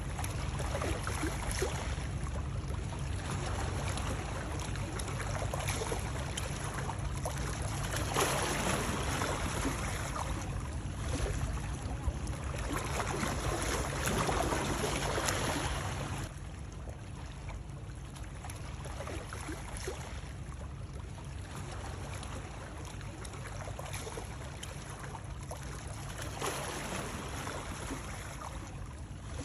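Continuous flowing water, trickling and splashing over a low rumble, somewhat louder in the first half and settling a little quieter about halfway through.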